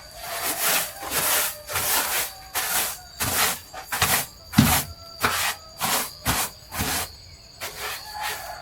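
Rhythmic scraping or scrubbing strokes, about three every two seconds, with a short break near the end, over a faint steady high whine.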